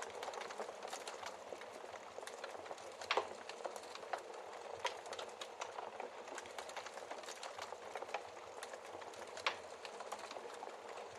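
Wood fire in a fireplace crackling: a steady hiss of burning with many small snaps, and two louder pops about three seconds in and near the end.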